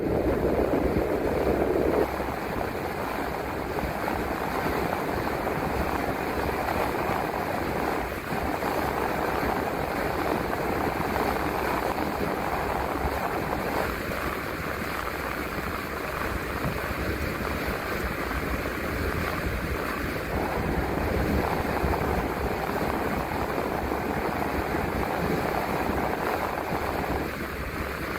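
Steady road and engine noise inside a moving transit bus's cabin: a continuous rumble and rush that is a little louder for the first couple of seconds and then holds even.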